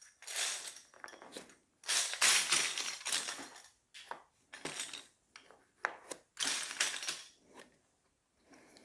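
Loose plastic Lego pieces clattering and rattling as they are rummaged through and handled, in several short bursts with a few sharp single clicks between them.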